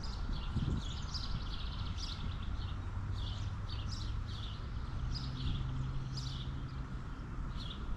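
Birds chirping outdoors: short, high, downward-sweeping chirps, two or three a second, with a low steady hum underneath for a few seconds in the middle.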